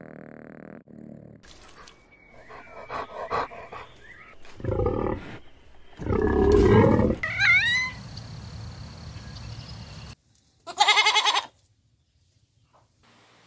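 Farm animal calls one after another: a loud pig grunt about six seconds in, then a short wavering goat bleat near the end. Softer animal noises and clicks come before them.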